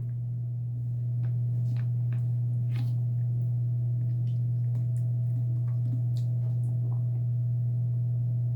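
Steady low hum, with a fainter higher tone joining about a second in and a few faint scattered ticks.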